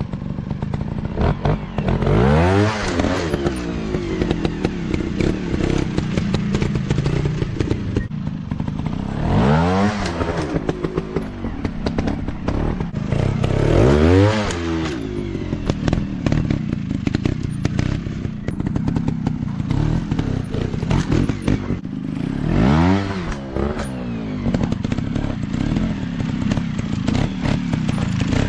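Off-road dirt bike engines running, with the pitch climbing and dropping sharply four times as the throttle is opened and closed.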